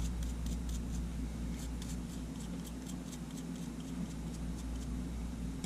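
Light, irregular clicks and ticks of small camera parts and tools being handled while a Sony A7 is reassembled, most frequent in the first few seconds, over a steady low hum.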